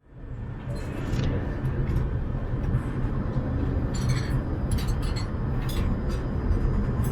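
Steady low rumble of an Airbus A380's cabin in flight, with a few light clinks about four seconds in.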